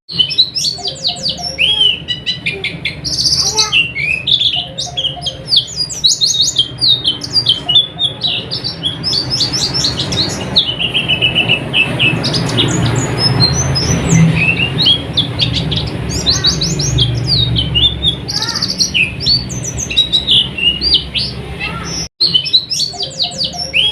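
White-eyes (pleci) singing: fast, high twittering phrases of rapid chirps and trills from several birds at once, over a low hum. The sound breaks off for an instant near the end.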